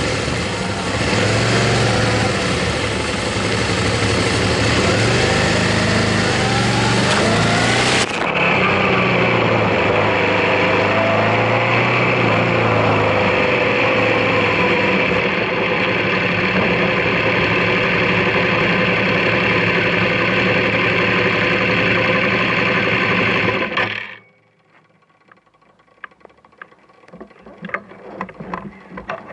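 Motorcycle engine running under way, its pitch rising and falling with the throttle. It cuts off suddenly about 24 seconds in, leaving faint rustling and scattered taps.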